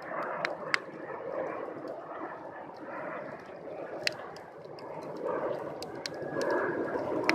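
Bonfire of dead branches burning, with an uneven rush of flame and a few sharp crackles and pops from the burning wood.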